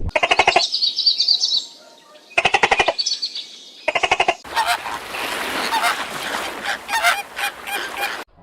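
Bird calls: three short bursts of harsh, rapid calls with high chirps between them, then a longer noisy stretch with scattered clicks from about four and a half seconds in, stopping suddenly near the end.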